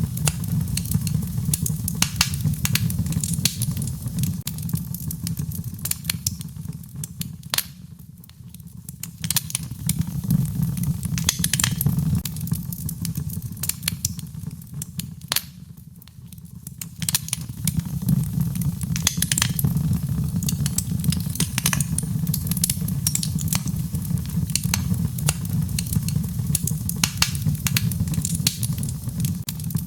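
Wood fire in a fireplace crackling, with frequent sharp pops over a steady low rumble of the burning. The rumble dies down briefly twice, about eight and sixteen seconds in.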